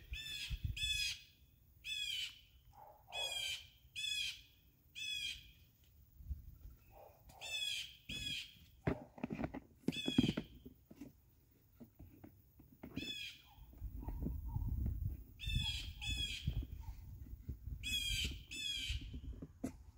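A bird repeatedly giving short, harsh calls, about one a second in runs, with a pause of a few seconds near the middle. Low rumbling and a few knocks from ground work sit under the calls in the second half.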